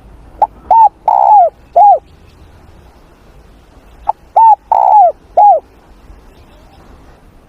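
Spotted dove cooing: two phrases about three and a half seconds apart, each a short opening note followed by three falling coos, the middle one longer and rolled.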